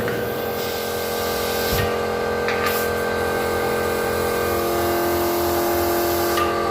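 Compressed air hissing steadily at the pressure tank's air valve while its pressure is checked and charged, over a steady mechanical hum; the tank is still well short of its 2 bar air charge.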